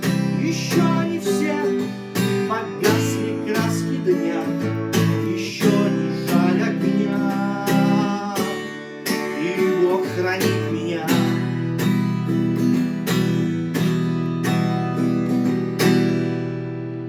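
Acoustic guitar strummed in a steady, even rhythmic pattern, chords ringing between strokes; a last strum near the end is left to ring.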